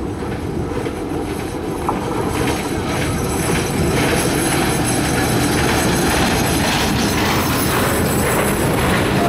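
Diesel locomotive hauling a passenger train approaches and passes close by. The engine and wheel noise grows louder over the first four seconds or so, then the coaches roll past with a steady sound of wheels running over the rails.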